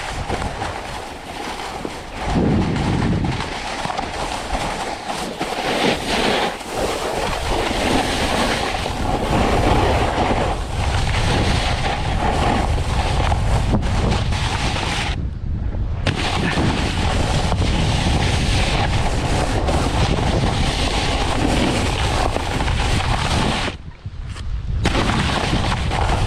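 Rushing wind buffeting a mouth-mounted GoPro's microphone as a snowboard slides fast down a run, mixed with the board's scrape over snow. The noise drops away briefly twice, about fifteen seconds in and again near the end.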